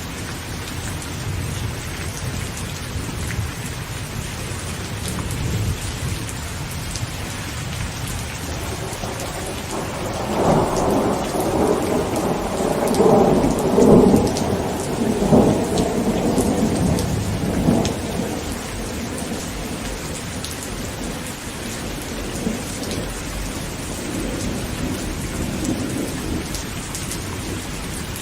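Heavy rain pattering steadily on a tent, with a long roll of thunder rumbling up about ten seconds in and dying away some eight seconds later.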